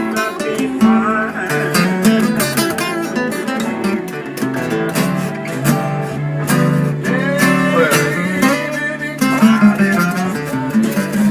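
Blues guitar music: picked single-note lead lines with bent notes over sustained chords.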